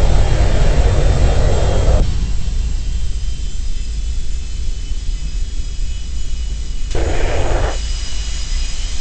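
Boeing 737-200's Pratt & Whitney JT8D jet engines running with a steady low rumble and a faint high whine. A coarser hiss rises over it for the first two seconds and again briefly about seven seconds in.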